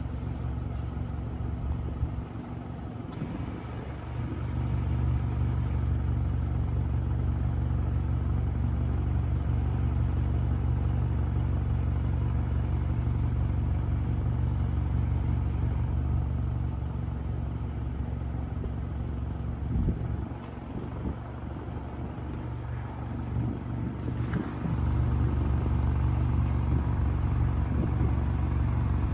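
Airplane engine running with a steady low drone, easing off twice for a few seconds, then coming back up.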